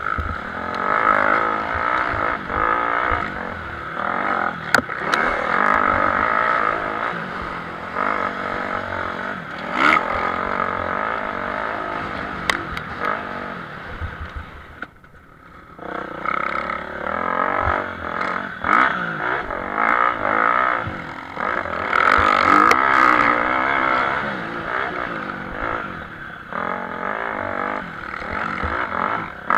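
Motocross motorcycles racing, their engines revving up and down through gear changes and throttle blips, with a few sharp clicks and knocks. The engines fade briefly about halfway through, then pick up again.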